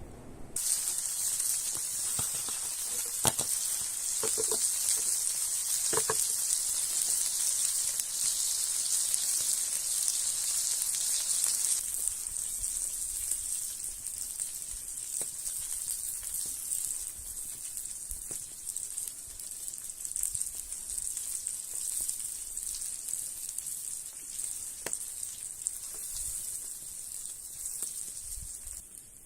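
Food sizzling in a hot pan: a steady high sizzle with a few short pops, easing off somewhat about twelve seconds in.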